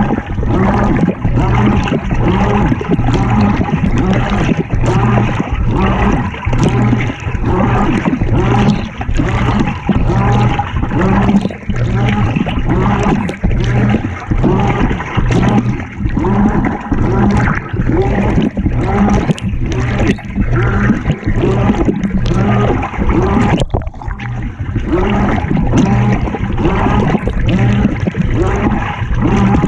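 Water and laundry sloshing and churning inside a GE top-loading washing machine tub during agitation, heard from inside the drum, over a steady low motor hum.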